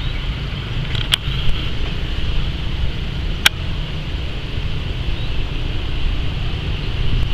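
Airport train running slowly on the line, a steady low rumble with a thin steady high whine over it. Two sharp clicks cut through, about a second in and again about three and a half seconds in.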